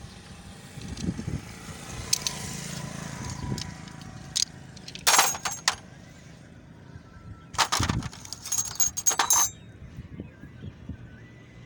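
Metal tools and parts clinking and clattering in two bursts, a short one about five seconds in and a longer run of clicks around eight to nine seconds, during a motorcycle clutch plate change. A low traffic hum runs underneath.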